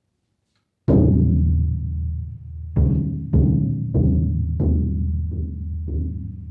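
Bougarabou drum with a thick Peruvian steer skin head on an Iroko wood shell, struck by hand: about seven bass strokes starting about a second in, the first the loudest, each with a deep ringing boom that carries into the next.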